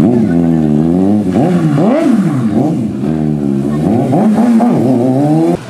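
Motorcycle engine being revved over and over, its pitch rising and falling with each twist of the throttle, then cutting off suddenly near the end.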